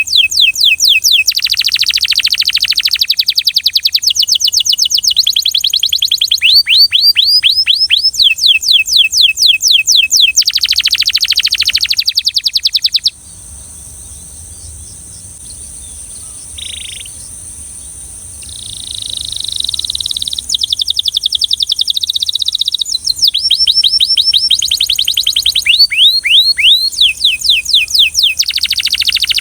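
Belgian canary singing in fast trilled runs of repeated high sweeping notes. The song breaks off about halfway through, comes back softly a few seconds later, then continues in quick trills.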